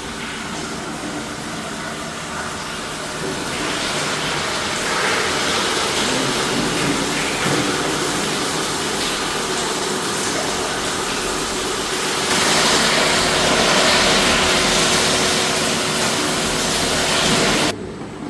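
Steady rushing, hissing machinery noise, louder from about four seconds in and louder again from about twelve seconds, with a faint steady hum joining partway through; it cuts off abruptly near the end.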